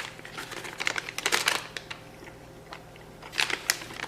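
Crinkling and clicking of a plastic snack wrapper being handled, in two short flurries, about a second in and again near the end.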